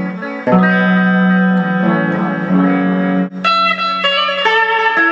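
Electric guitar played through a Behringer DD400 digital delay pedal. A chord struck about half a second in rings on, and a brighter, higher chord comes in a little past three seconds.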